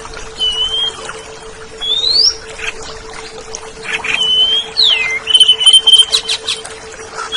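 Oriental magpie-robin (kacer) singing clear whistled phrases, some held flat, some rising or falling. In the second half comes a quicker run of repeated notes mixed with sharp clicks. A steady low hum and a constant hiss sit beneath the song.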